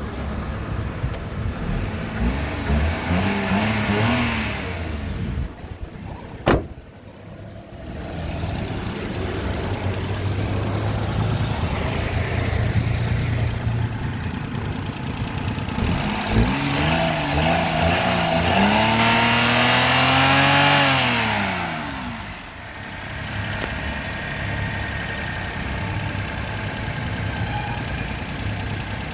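Daihatsu Mira's KF-VE three-cylinder petrol engine running at idle and being revved twice, the pitch climbing and falling back each time, the second and longer rev near two-thirds through. A single sharp click a little after the first rev.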